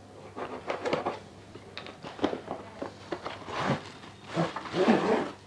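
Ceiling fan blades and their packaging being handled and unwrapped: irregular rustling with scattered knocks and clicks, loudest near the end.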